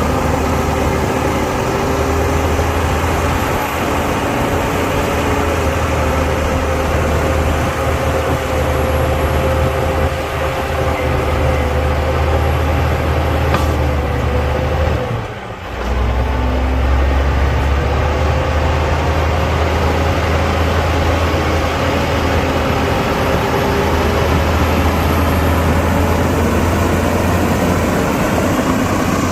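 Heavy diesel engine of earthmoving machinery running steadily under work, a deep low rumble with a steady engine note. About halfway through the note sags and the sound briefly drops away, then picks up again.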